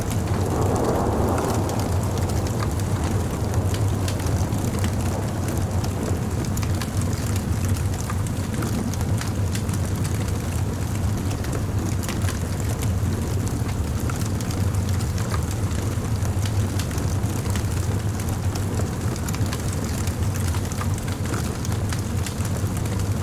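Wood bonfire burning: a steady low rush of flame with scattered crackles and pops, and a louder rush in the first couple of seconds.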